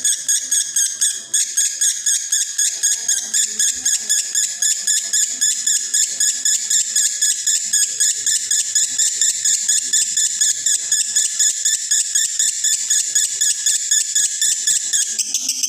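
Male lovebird singing 'konslet': a long, unbroken, rapid chattering trill of high-pitched notes repeated several times a second. This is the song of a male in breeding condition. The pattern shifts slightly near the end.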